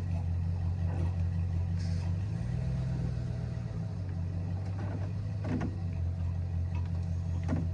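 Vehicle engine idling steadily, its pitch rising slightly for a moment about two seconds in, with a few faint clicks.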